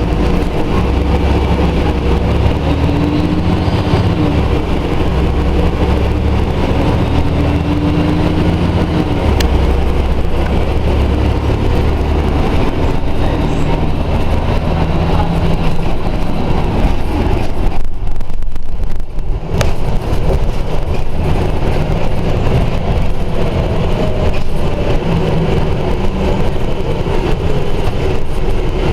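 Scania Omnidekka double-decker bus's diesel engine running under way, its note rising and falling as the bus pulls away, changes gear and slows, with a brief drop in the low engine hum about two-thirds of the way through.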